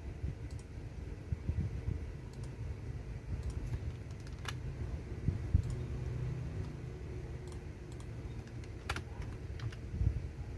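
Computer keyboard being typed on, with scattered, irregular keystroke clicks over a steady low rumble.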